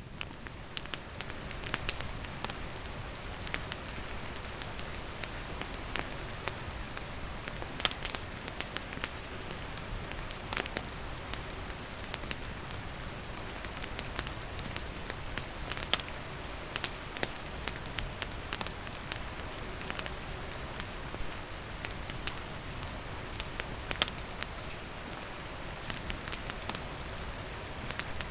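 Steady rain falling, mixed with a wood campfire crackling, with irregular sharp pops scattered throughout.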